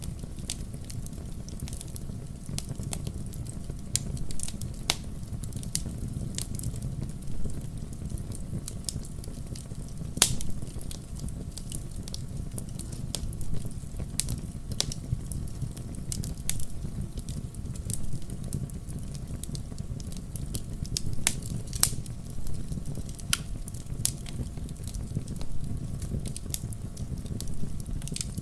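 Wood campfire crackling: irregular sharp pops and snaps of burning logs over a steady low rumble of the flames, with one louder pop about ten seconds in.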